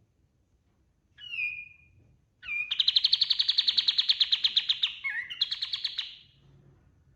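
Kapas tembak (olive-winged bulbul) singing: a short falling whistle, then a long, loud, rapid trill of repeated notes with a brief break near the end.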